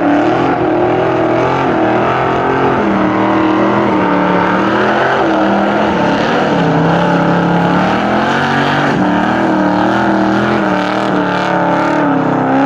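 American muscle car's V8 engine running loudly, its pitch rising and falling again and again with the throttle.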